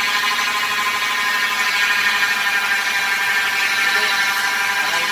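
Hyundai Accent automatic transmission humming steadily with the engine running, an even whine that is the fault being diagnosed, taken for a problem inside the transmission.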